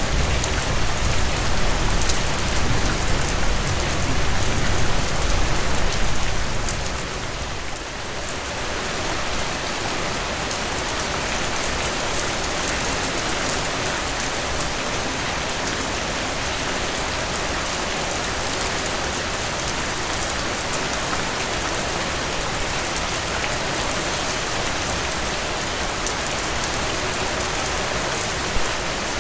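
Steady, even rainfall hissing down. A low rumble lies under it at first and fades away about a quarter of the way through, leaving the rain alone.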